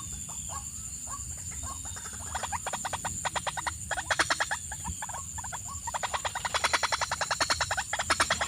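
A bird calling in quick repeated clucking notes: a few separate notes, then from about two seconds in fast rattling runs of about ten notes a second, coming in bursts.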